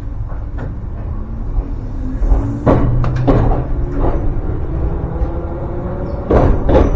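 Electric commuter train pulling away: a low rumble, with a motor whine rising in pitch from about two seconds in and several sharp knocks from the wheels on the track.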